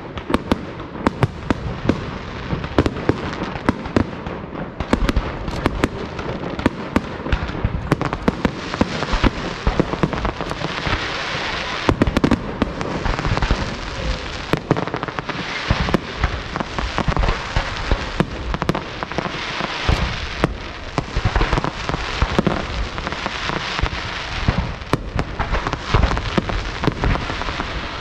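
Fireworks display: aerial shells launching and bursting in a continuous barrage of sharp bangs and crackle, thickest about a third of the way in and again near the end.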